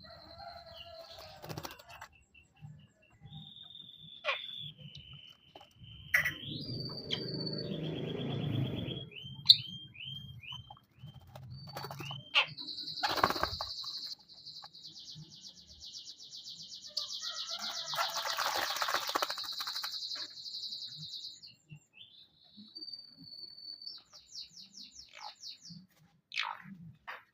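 Pied starling (jalak suren) whistling and chattering while it bathes: clear held whistles and gliding notes, a quick run of repeated notes, and a long harsh chatter in the middle, with bursts of wing flapping in the water.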